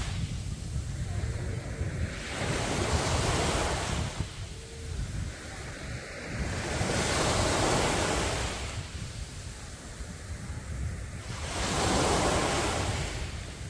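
Sea waves breaking and washing up a beach, each surge swelling and fading about every four to five seconds, three in all, with a steady low rumble of wind on the microphone.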